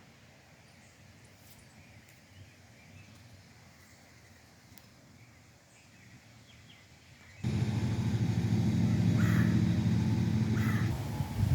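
Faint, scattered bird chirps over quiet outdoor background, then about seven seconds in a loud, steady engine hum starts abruptly, drowning out the surroundings while a couple of short bird chirps sound over it.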